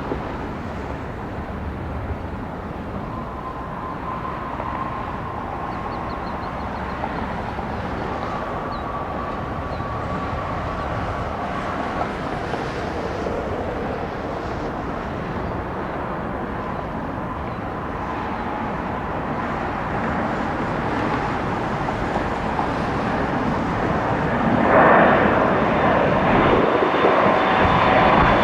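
Jet airliner engines at takeoff power during a departure roll and climb-out, a steady rushing noise with a faint whine. It grows slowly louder and jumps sharply louder about 25 seconds in as the jet passes close by.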